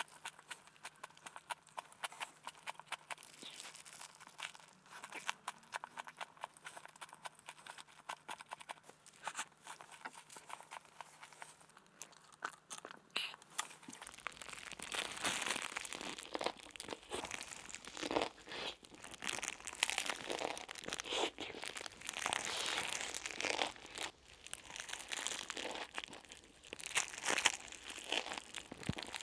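Crinkling, crunching and rustling handling sounds of kitchen food preparation, faint at first and louder from about halfway through.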